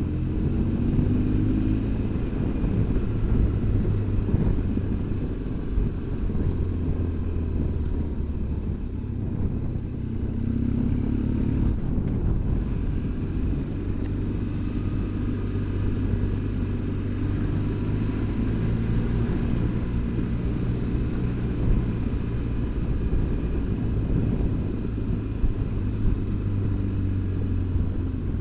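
BMW R1200GS Adventure's boxer-twin engine running under way, with wind and road noise. The engine note rises and falls a few times as the throttle changes.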